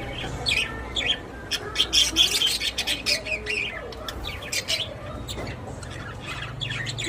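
Budgerigars chattering with many short, quick chirps and squawks, busiest about two seconds in, over a low steady hum.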